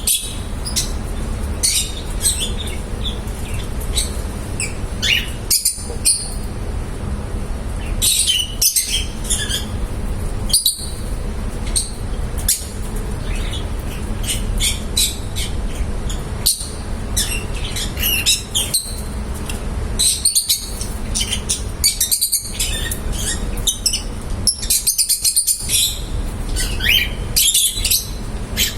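Lovebirds chirping and tweeting, many short high-pitched calls in quick clusters throughout, over a steady low hum.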